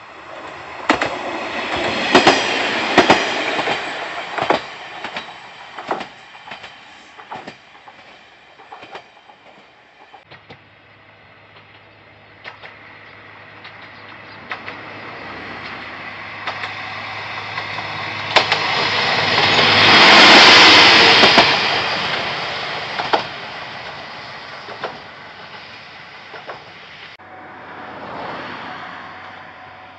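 KiHa 40 single-car diesel railcar running by on jointed track, its wheels clacking over the rail joints. It passes loudest about two-thirds through, with a fainter pass near the end.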